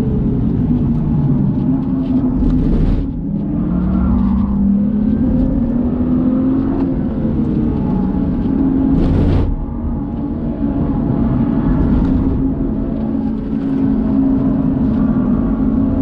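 BMW's engine heard from inside the cabin while lapping a race track, held at mid revs of around 4,500 rpm, its pitch wavering as the throttle is lifted and reapplied. It gets louder near the end as the throttle opens. Two short loud whooshes stand out about 3 and 9 seconds in.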